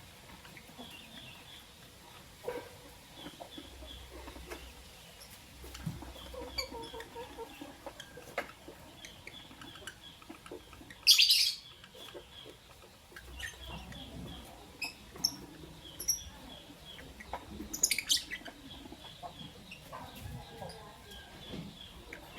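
Lovebirds chirping: two loud, shrill calls about 11 and 18 seconds in, among faint repeated chirps and scattered small taps.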